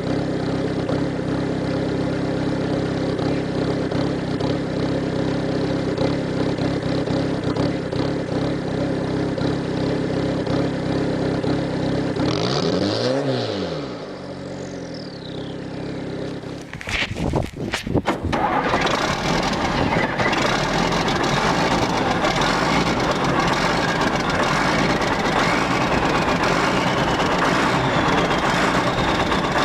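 A diesel engine runs at a steady idle. About seventeen seconds in, a diesel cranks over in a few quick strokes and catches on a cold start, then keeps running loudly.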